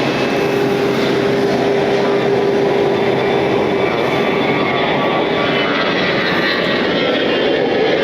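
Steady aircraft engine noise, a loud even rush with a steady hum-like tone that fades out about halfway through.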